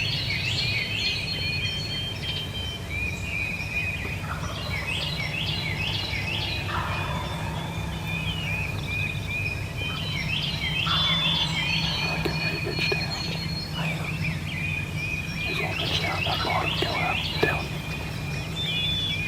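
Wild turkey gobblers gobbling several times, each gobble a short rattling burst, over songbirds singing and chirping throughout. A steady low hum runs underneath.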